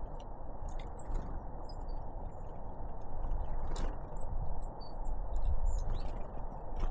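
Short, high chirps and calls of small tits, great tits and blue tits, scattered over a steady low rumble that swells about five seconds in, with a few brief sharp clicks.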